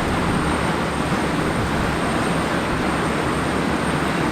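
Jet aircraft engines running with a steady, loud roar and a thin high whine on top.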